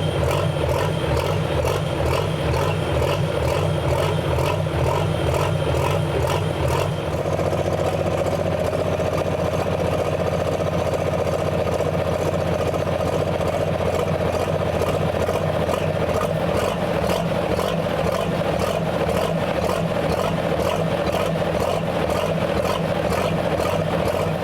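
Diesel pulling truck's engine idling steadily with an even pulsing beat; its note shifts slightly about seven seconds in.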